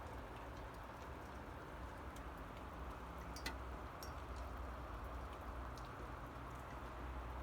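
Steady rain with scattered individual drops ticking close by, one sharper tap about halfway, over a low rumble.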